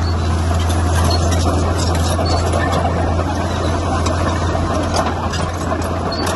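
Heavy diesel engine of earthmoving machinery running steadily, with a strong low drone that does not change.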